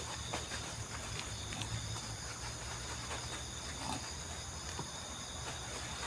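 Night forest ambience: steady insect chirring with thin, unbroken high tones over a low hum, with a few faint ticks.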